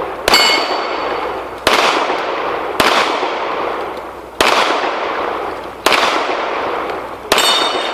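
Pistol shots at steel targets: six shots about one to one and a half seconds apart, each with a long echoing tail. After the first and last shots, a steel plate rings with a clear high tone.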